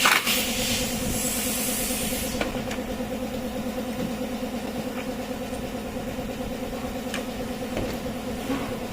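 Makita DUH601 18 V cordless hedge trimmer running steadily, its motor and reciprocating blades giving a constant hum with a fast flutter. A hiss over it stops about two seconds in, and a few faint ticks follow.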